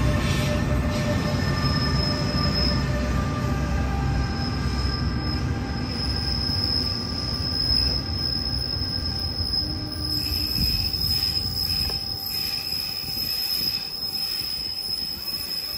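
Train passing with a steady high-pitched squeal over a low rumble; the rumble fades about ten seconds in while the squeal keeps on.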